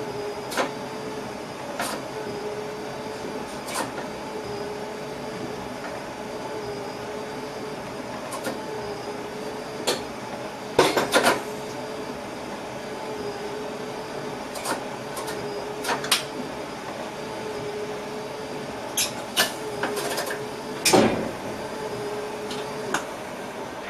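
Inside a train driver's cab: a steady electrical hum with scattered sharp clicks and knocks, bunched into quick clusters about eleven seconds in and again near the end.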